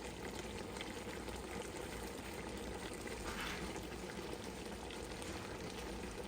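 Sausage and gravy mixture simmering in a frying pan, a steady bubbling sizzle, as brown gravy mix is added. A brief louder patch comes about three and a half seconds in.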